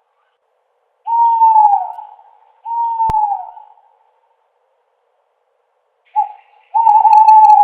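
An owl hooting: two long hoots that hold their pitch and then slide down at the end. After a pause, a short hoot and then a longer one follow near the end. A single sharp click sounds about three seconds in.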